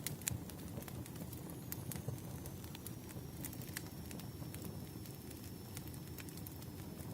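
Wood fire burning: irregular sharp crackles and pops of burning firewood over a low, steady rumble of the flames.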